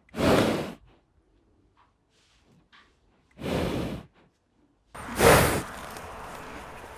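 A horse blowing out hard through its nostrils three times, each a short noisy breath of about half a second, the last one the loudest; with the third, a steady background noise begins.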